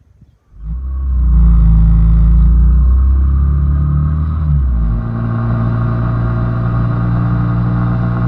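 A loud engine starts up sound-wise about half a second in and runs steadily with a low hum, its pitch shifting down about five seconds in.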